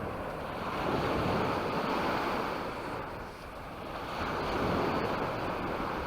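Small sea waves breaking and washing up the beach: two swells of surf, about three seconds apart.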